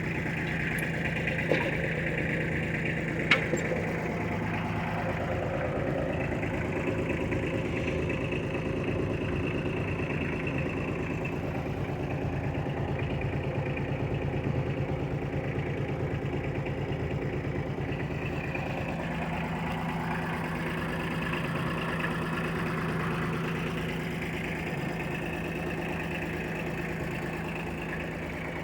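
1979 Kubota L245DT tractor's diesel engine idling steadily, with two sharp clicks a few seconds in.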